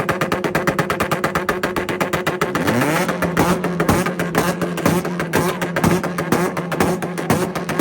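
Tuned Honda engines held on two-step launch limiters, giving a rapid, even stutter of cut-outs. About three seconds in, a second engine revs up and holds on its limiter alongside the first.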